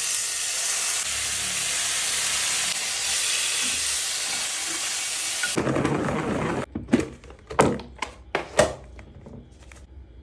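Food sizzling loudly and steadily in a hot pan. It gives way to a rougher, lower rustle, then a quick run of about five sharp knocks and clatters.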